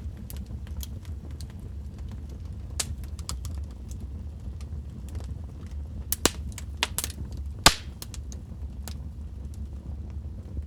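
Wood fire burning in a fireplace: a steady low rumble with scattered crackles and sharp pops, the loudest cluster of pops between about six and eight seconds in.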